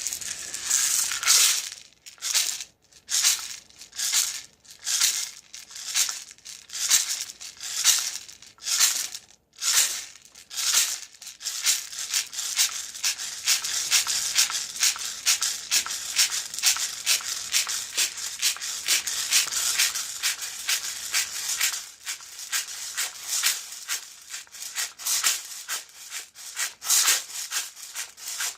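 Hand rattle shaken in slow, separate strokes about once a second, then shaken continuously from about eleven seconds in, easing off and breaking back into single shakes near the end.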